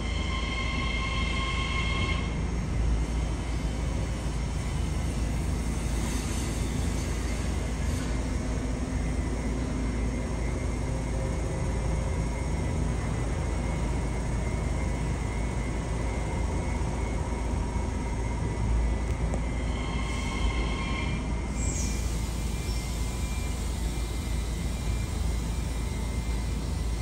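Ten-car Mariyung (New Intercity Fleet D set) electric train rolling slowly past with a steady low rumble. A brief high tone sounds near the start and again about twenty seconds in.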